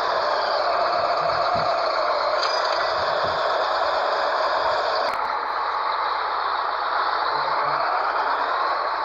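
Scania 113H 360 truck's six-cylinder diesel engine running steadily under way, with a slow rise and fall in pitch near the end.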